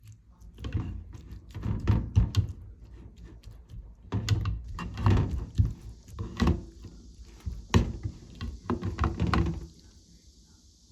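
Irregular thuds and knocks of objects being handled and set down during kitchen work, with a faint steady hiss in the second half.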